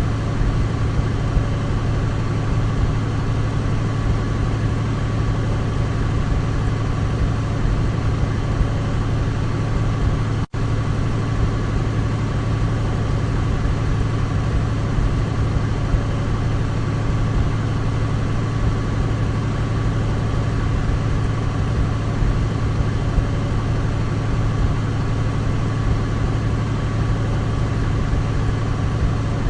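Douglas DC-3's radial piston engines running in a steady drone, with a strong low hum and a faint higher tone. The sound cuts out for a split second about ten seconds in, then carries on unchanged.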